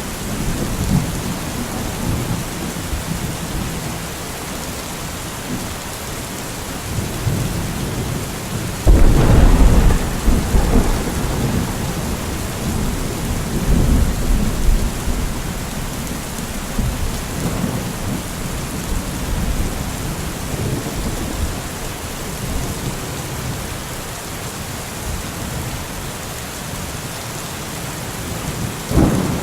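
Steady rain falling through a thunderstorm, with low thunder rumbling on and off. About nine seconds in, a sudden loud thunderclap breaks and rolls away over the next few seconds, and more thunder starts to build near the end.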